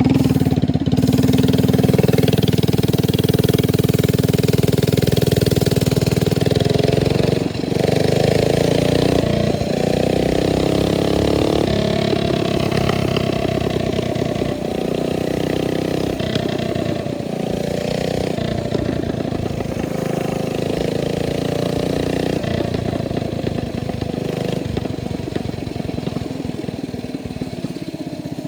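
Mini bike's Hemi single-cylinder engine running hard, its pitch rising and falling several times as the throttle is worked, with a short dip about seven and a half seconds in.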